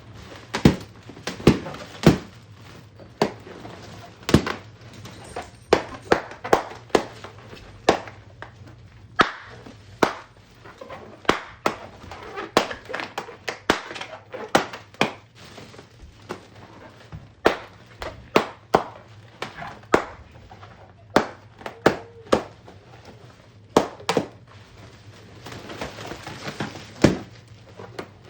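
Balloons being popped one after another at an uneven pace: several dozen short, sharp pops, some in quick pairs or runs, over a steady low hum.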